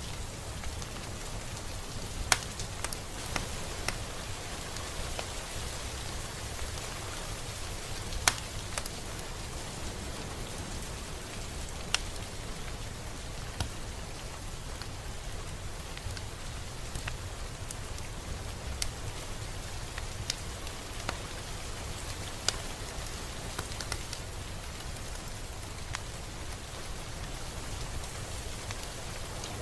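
Steady rain falling, an even hiss of drops with scattered sharper, louder single drops landing close by.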